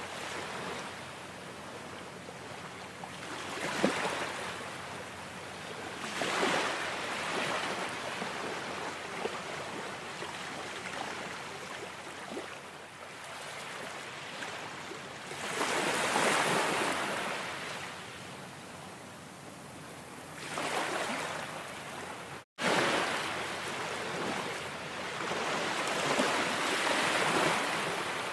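Ocean waves washing on a shore, swelling and fading every few seconds, with a split-second gap in the sound about two-thirds of the way through.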